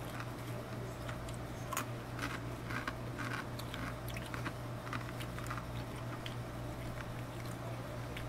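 A person chewing a mouthful of crunchy snack mix, dry sriracha ramen snack pieces with nuts, with scattered crisp crunches, over a steady low hum.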